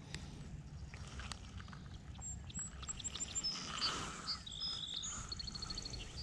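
Small birds chirping and singing, with a quick run of repeated high notes about five seconds in, over a steady low rumble and a few faint clicks.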